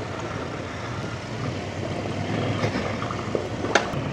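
Off-road trail motorcycle engine running steadily while riding a rough lane, with one sharp click or knock near the end.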